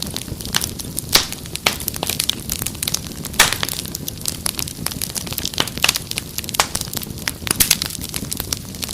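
Wood fire crackling and popping: a steady low rumble of flames with frequent irregular sharp snaps, a few louder pops standing out.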